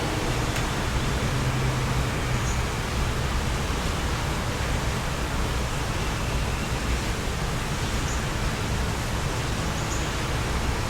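Steady wind blowing, an even rushing noise with a low rumble underneath. A few faint, brief high bird chirps come through.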